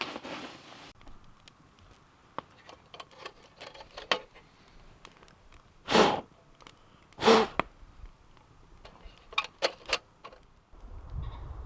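Small clicks and rustles of handling, with two short, louder rushes of noise about six and seven seconds in. Near the end, a steady low rumble begins.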